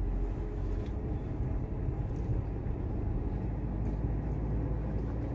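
Iveco truck's engine running steadily at a low rumble while the truck drives slowly, with road noise.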